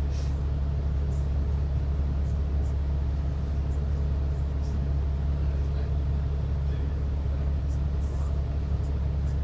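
Steady low drone of a bus running, with engine and road rumble holding an even level.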